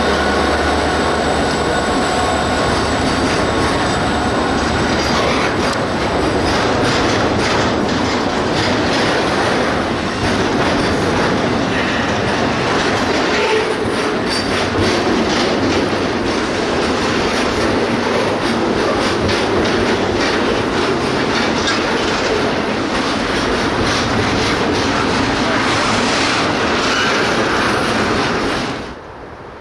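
A train rolls by close at hand: a steady rumble with wheels clicking over rail joints and some wheel squeal. A few steady squealing tones are heard in the first few seconds, and the sound cuts off abruptly near the end.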